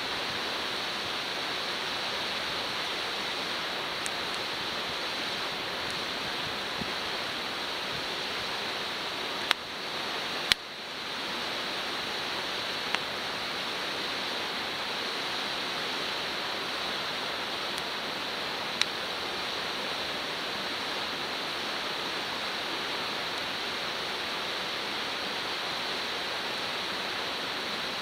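Steady sizzling hiss with a few single sharp pops scattered through, food frying in a wrought-iron frying pan over a wood fire.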